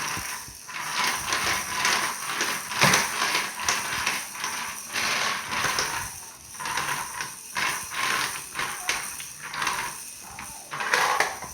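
Toy vacuum cleaner pushed across a slate floor, its plastic rattling and clattering unevenly in rough strokes; quite noisy on the slate.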